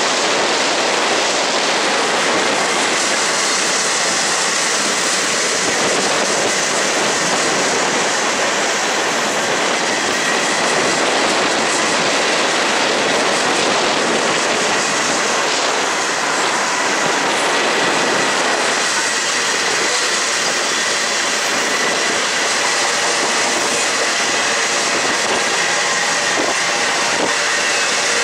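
Freight cars of a long train rolling past: a steady rumble and rush of steel wheels on rail, with a faint steady high tone from the wheels held under it.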